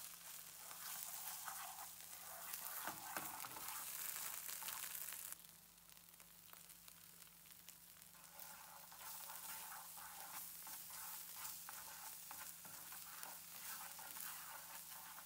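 Red paste and chopped onion sizzling as they fry in a nonstick frying pan, with a utensil scraping and stirring through them. The sizzle drops suddenly to a quieter level about five seconds in.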